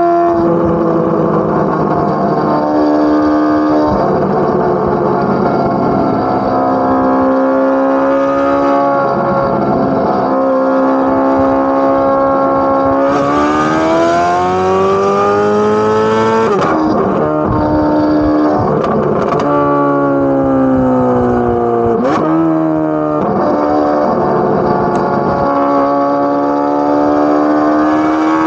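Chevrolet Corvette C8 Z06's flat-plane-crank 5.5-litre V8 exhaust, holding steady revs for long stretches. About halfway through it revs up with a rising note, then the pitch drops sharply as it shifts. Several quicker drops in pitch follow.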